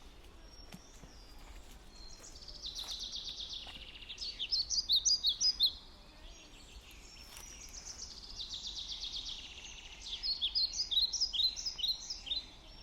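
Small birds singing: buzzy high trills followed by quick runs of sharp chirps, coming in two rounds about five seconds apart, over a faint steady low background hum.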